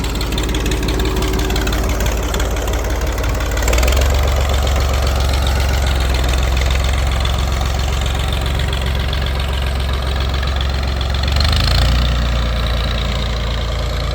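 Tractor engine running at idle; the engine note steps up about four seconds in and changes again near the end.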